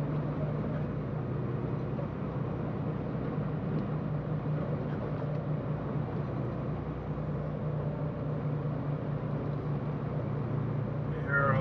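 Semi-truck diesel engine running with a steady low drone, heard from inside the cab.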